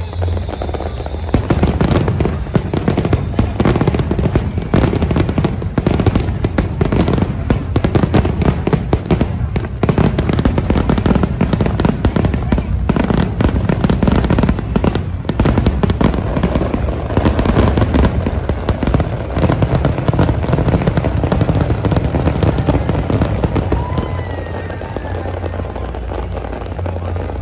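Fireworks display in a dense barrage: rapid bangs and crackles packed close together, starting about a second in and easing off near the end.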